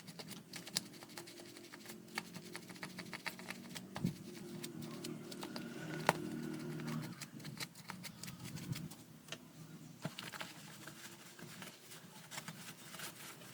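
Irregular small clicks and taps of plastic electric-fan parts being handled and cleaned by hand, over a low rubbing noise that grows louder in the middle stretch.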